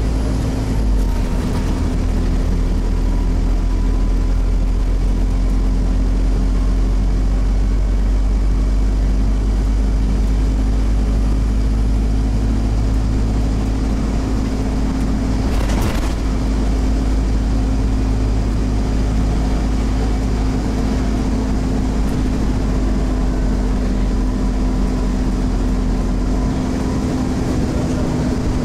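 Scania CN270UB OmniCity bus engine running steadily, heard from on board, with rumble and road noise. There is a sharp knock about halfway through.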